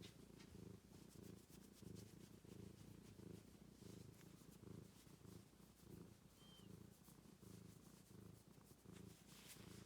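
Domestic cat purring close to the microphone: a low, steady rumble that swells and fades with each breath.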